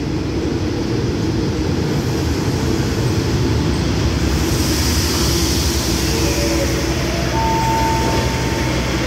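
Diesel passenger train pulling slowly into a station and rolling past close by: steady engine rumble and wheels on rail, with a hiss about halfway through and a brief high squeal about seven seconds in.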